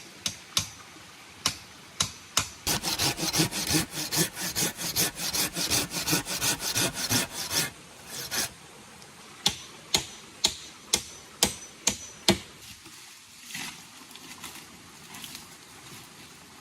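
Hand tools working wood: a few sharp knocks, then about five seconds of fast rhythmic strokes, then a run of single knocks about two a second.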